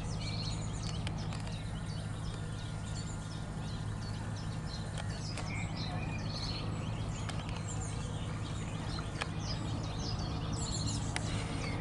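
Small birds chirping in many short, high calls over a steady low hum.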